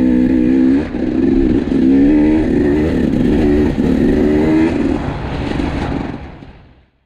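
KTM 250 EXC two-stroke enduro motorcycle engine running under riding load, its revs rising and falling, fading out near the end.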